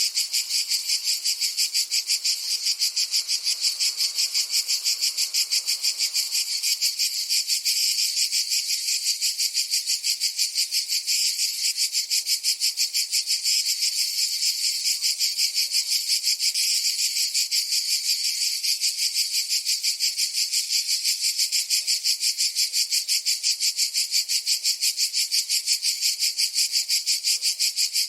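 Cicada buzzing: a continuous high-pitched drone pulsing in a fast, even rhythm, unchanging throughout.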